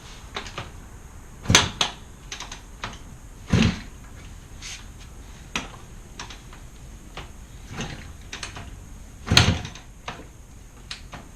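Scattered clicks and knocks of tools and parts being handled during workshop work, with three louder knocks about a second and a half in, at three and a half seconds, and near the end.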